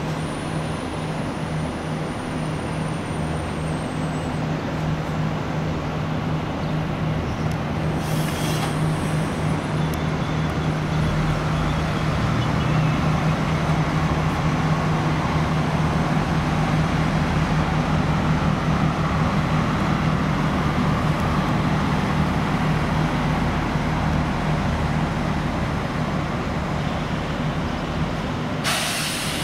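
A CP electric multiple unit passing through the station with a steady electric hum. The hum swells as the train comes close and eases off as it moves away. Short bursts of hissing come about eight seconds in and again near the end.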